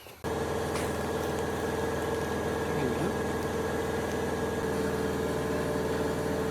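A machine motor starts suddenly and runs at a steady, even pitch.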